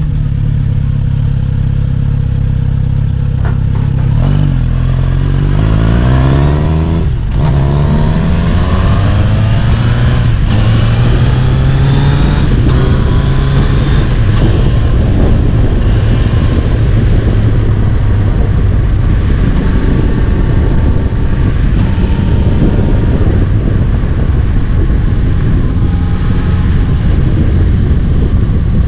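Kawasaki Z900RS inline-four motorcycle engine under way: a steady engine note, then revving up through the gears about five to seven seconds in with a brief drop at a gear change, then cruising at a steady note under a rising rush of wind and road noise.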